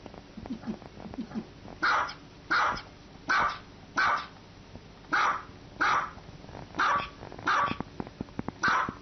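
A small dog barking at the person filming: about nine sharp, high-pitched barks in an even rhythm, starting about two seconds in, with a short pause midway.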